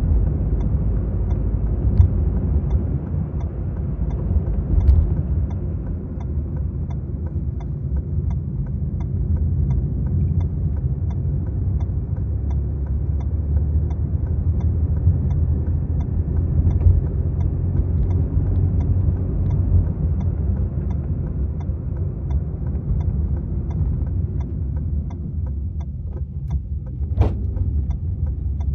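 Maruti Suzuki Swift VXi being driven: a steady low rumble of engine and road noise, with a few light knocks and a sharp click near the end.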